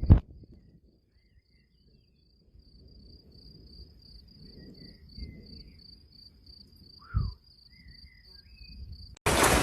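Cricket chirping in an even train of short high pulses, several a second, with a single thump about seven seconds in. Near the end a loud hiss cuts in abruptly.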